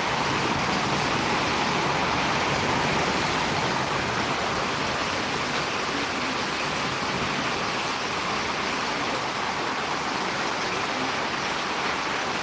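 Steady rain falling in a storm: an even, unbroken hiss with no single drops or gusts standing out.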